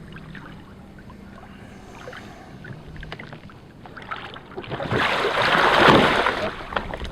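Water sloshing quietly with small splashes, then a loud splash lasting about a second and a half near the end as a capsized Sea Eagle Explorer 380x inflatable kayak is flipped upright onto the water.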